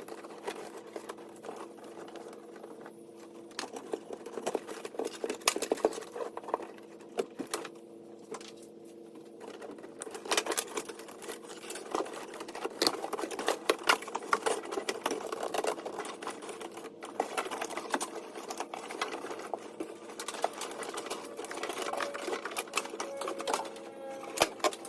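Rapid, dense clicking and rattling of hand work on a car, sped up, over a steady low hum. The clatter gets busier from about ten seconds in.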